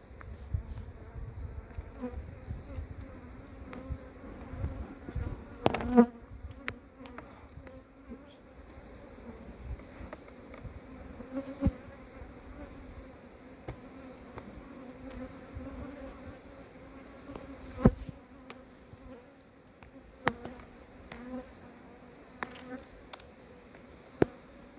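Honey bees buzzing around an open hive, a steady hum, with a few sharp knocks and clicks scattered through it.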